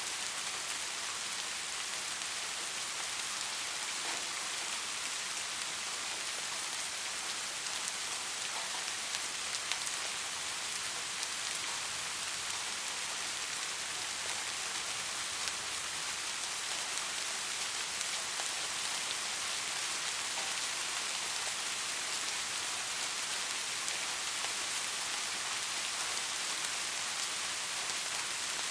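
Steady rain falling, a continuous even hiss of rainfall with faint scattered drop patter.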